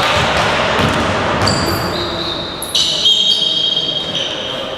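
Basketball game sounds in a gym: the ball bouncing and sneakers squeaking on the court floor, several long high squeaks from about halfway in, all echoing in the hall.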